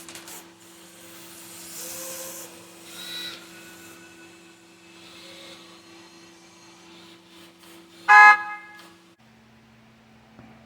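Steady motor hum from 1:14 scale RC construction equipment, with some scraping and rasping around two to three seconds in. About eight seconds in there is one short, loud horn-like toot, and about a second later the hum drops to a lower pitch.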